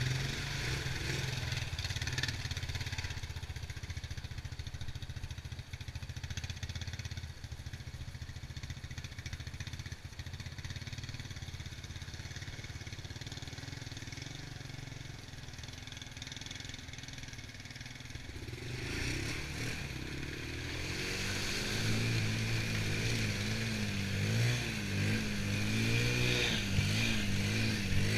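Honda TRX90 ATV's small single-cylinder four-stroke engine running at a steady, low pace for most of the time. About two-thirds of the way in it gets louder, and its pitch rises and falls repeatedly as it is revved under the rider's throttle.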